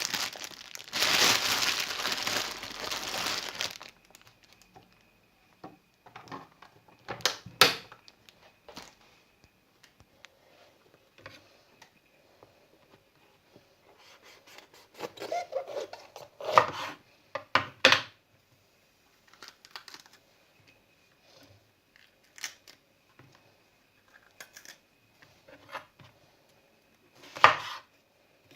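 Packaging crinkling and tearing for the first four seconds, followed by scattered light clicks and knocks of kitchen handling.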